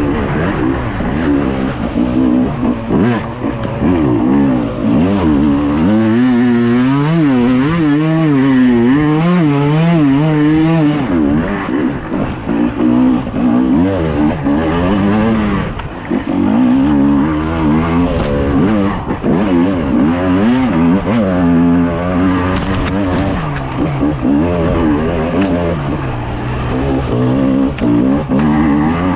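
Two-stroke enduro motorcycle engine heard close from the bike, revving up and down without pause as it is ridden hard off-road. Between about 6 and 11 seconds in the pitch wavers quickly up and down with rapid throttle blips.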